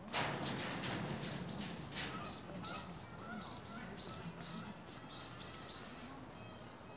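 A bird calling a quick series of about ten short, high chirps, two to three a second, after a sudden noisy burst at the start.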